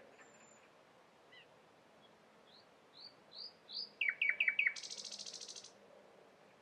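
Common nightingale singing one song phrase: a run of rising notes that grow louder, then four loud, sharp whistles falling in pitch about four seconds in, ending in a dry, high rattling trill.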